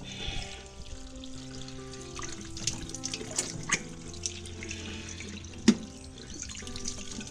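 Water from a tap splashing and running as a face is washed at a sink, with scattered small splashes and clicks and one sharp knock a little past halfway. Background music plays underneath.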